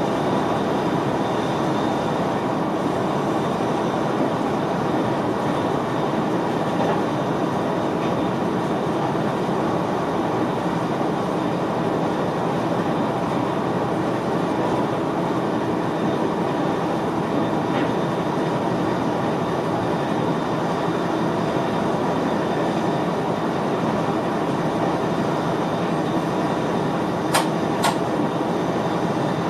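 Steady running noise of a VIRM double-deck electric train, heard inside the driver's cab, with two sharp clicks near the end.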